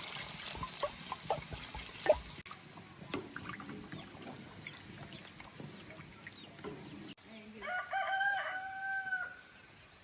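A rooster crows once near the end, a single long call. Before it come scattered clicks and knocks over a background hiss.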